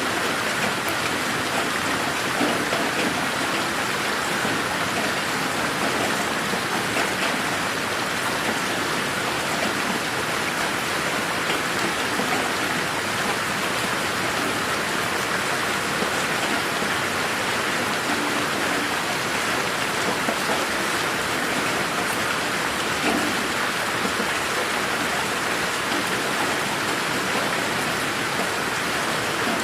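Steady rain falling on a garden: an even hiss with scattered drops, processed as 8D audio so it pans around the listener.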